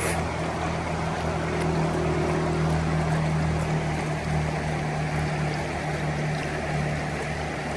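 A steady low motor hum, holding one pitch, over a constant rushing noise.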